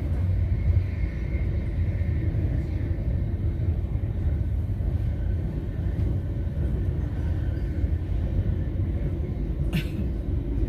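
Passenger train running at speed on an electrified line, heard from inside the carriage as a steady low rumble. A single short click comes near the end.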